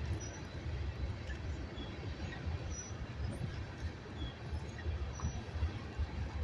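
Freight cars of a Union Pacific manifest train rolling past: a steady low rumble of wheels on rail.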